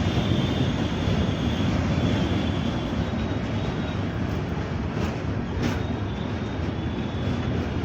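Steady low rumble and rushing noise of a moving vehicle.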